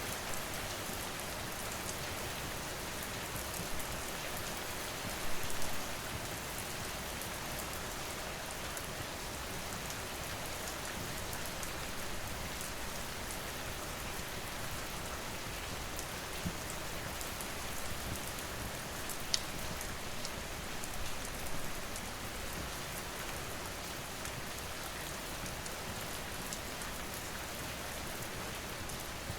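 Steady rain falling, an even hiss of drops, with a few sharp crackles from a wood fire scattered through it.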